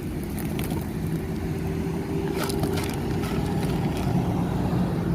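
An engine running with a steady low hum, with a few brief clicks about halfway through.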